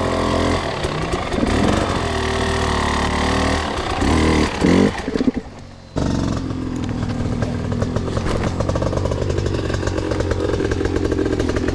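Two-stroke enduro dirt bike engine running at low revs under load, with a few short rising revs about four to five seconds in. The sound then falls away briefly and comes back abruptly about six seconds in, running on steadily with a fast chugging clatter.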